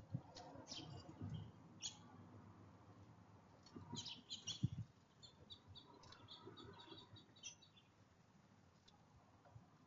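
Small songbirds at a backyard feeder chirping in short, high clusters, with several light knocks and taps on the feeder, the loudest about halfway through.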